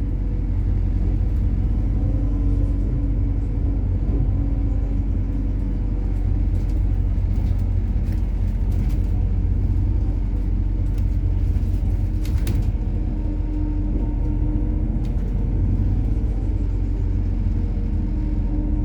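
Methane-powered MAZ-103 city bus under way, heard from inside: steady low engine and road rumble with an even engine hum, and scattered light rattles and clicks, mostly in the middle.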